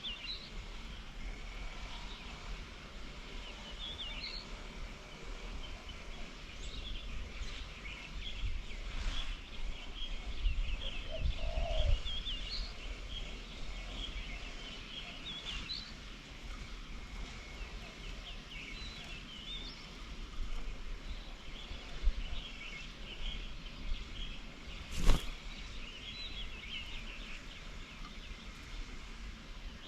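Outdoor bird chorus: many small birds chirping and twittering throughout, over a low rumble. One sharp click about 25 seconds in is the loudest sound.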